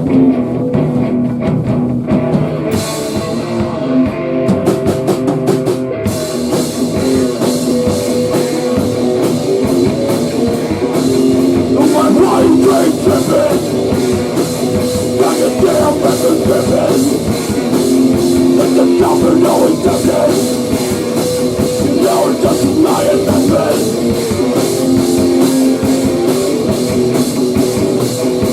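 Rock band playing without vocals: a guitar riff with drums building in over the first few seconds, then the full kit with steady cymbals from about six seconds in.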